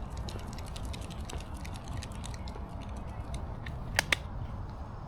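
Low, steady rumble with many faint small clicks and ticks, and two sharp clicks close together about four seconds in.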